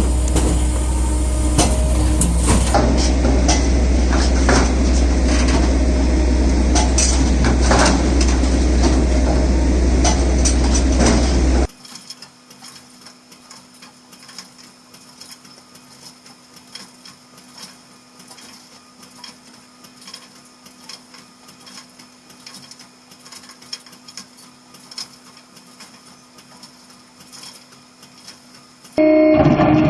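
Electric firewood processor running, a heavy low drone with irregular knocks and cracks of wood being cut and split. About twelve seconds in the sound drops abruptly to a faint steady hum.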